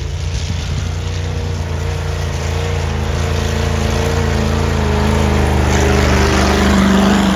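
Ford Bronco's engine running steadily, slowly growing louder and a little higher in pitch as it pulls.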